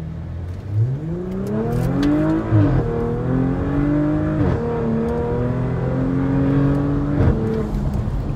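The 2.9-litre twin-turbo V6 of a 2021 Porsche Macan GTS, tuned with a piggyback module on its top performance setting, accelerating hard as heard from inside the cabin. The revs climb and fall back at three upshifts.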